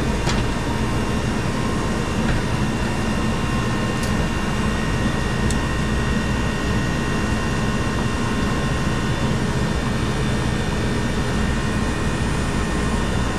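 Steady machinery running: a constant low drone with a whirring hiss and a few faint steady tones, and a few faint ticks.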